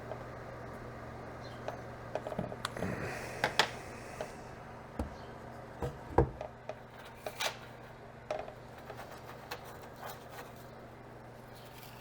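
Irregular sharp clicks and taps of hands working on a battery pack of 18650 cells and nickel strip, with a steady low hum underneath.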